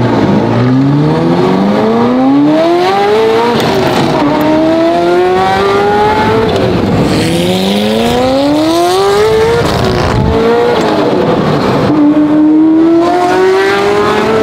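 Ferrari F40's twin-turbo V8 through a custom titanium exhaust, accelerating through the gears. The engine note climbs steadily and drops back at each of about three upshifts, then climbs again near the end.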